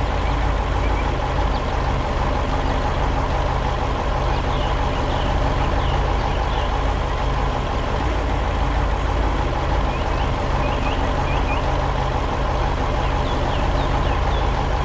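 Heavy construction vehicle's engine running steadily, a loud unchanging low hum, with faint high chirps over it.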